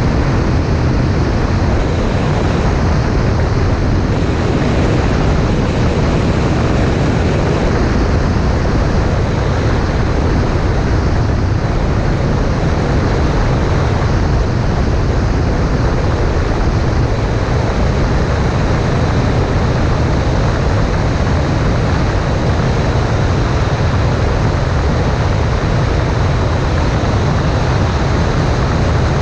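Cessna 140A in flight: a steady, loud drone of engine and rushing air, heavy in the low rumble, with no change throughout.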